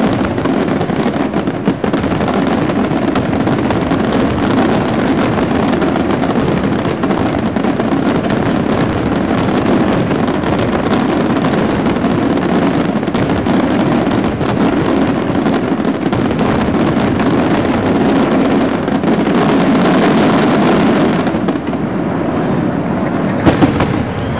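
Fireworks display: a dense, continuous barrage of bursts and crackling. It swells about twenty seconds in, eases slightly, and two sharp bangs stand out near the end.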